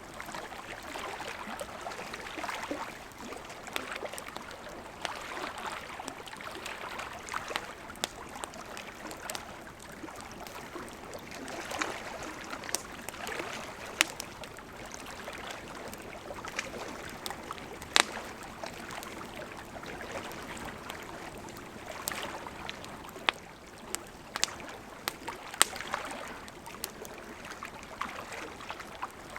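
Campfire crackling, with sharp pops scattered throughout and the loudest ones in the middle and latter part, over lake water lapping in soft, slow swells.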